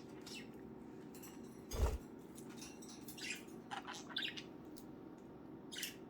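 Budgerigars chirping softly in scattered short calls, with a single dull thump about two seconds in.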